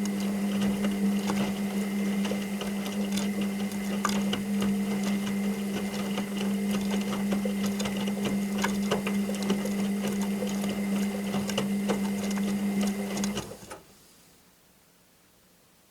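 Washing machine motor turning the drum in a wash phase: a steady hum with a faint higher whine and a scatter of small clicks and rattles, stopping about 13 seconds in as the drum pauses.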